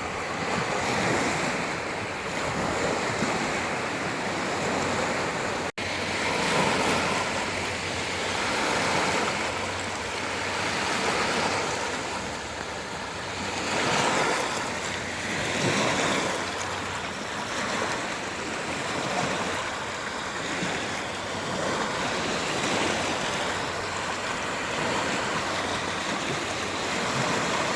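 Sea waves washing onto the shore, a steady surf that swells and ebbs every couple of seconds, with wind. The sound cuts out for an instant about six seconds in.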